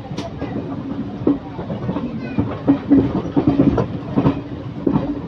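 Passenger train running on the rails, its wheels clattering over rail joints with irregular clanks and clicks over a steady low hum.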